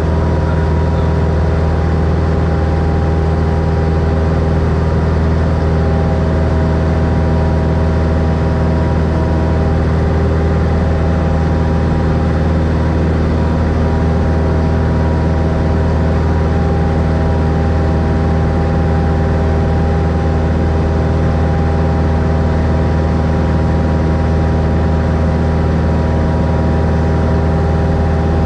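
1964 Cessna Skylane's six-cylinder Continental O-470 engine and propeller running at a steady speed: a constant drone with no change in pitch.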